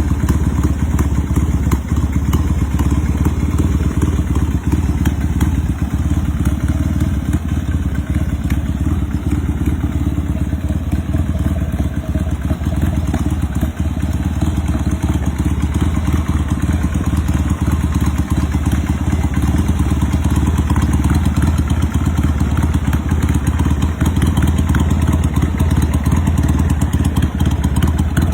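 1973 Yamaha TX650's air-cooled parallel-twin engine idling steadily.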